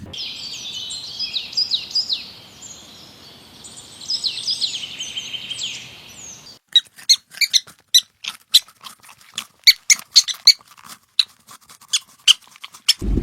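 Birds chirping: a dense twittering of many high, quick calls, then, after a sudden break about six and a half seconds in, a string of short sharp chirps, two or three a second.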